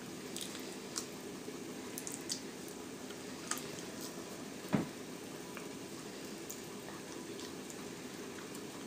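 Gnawing and chewing meat off a T-bone steak bone: wet smacking and sucking mouth sounds with scattered clicks, the loudest about halfway through, over a steady low background noise.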